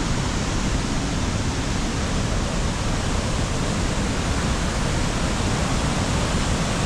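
Large waterfall rushing: a loud, steady wash of falling water with no break.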